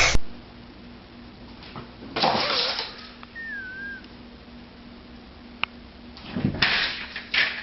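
A cat meowing once, briefly, about two seconds in, with a few short noisy scuffles near the end.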